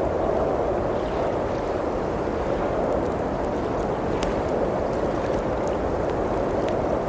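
Blizzard wind blowing steadily, with a few sparse crackles and pops from a wood fire in a fireplace.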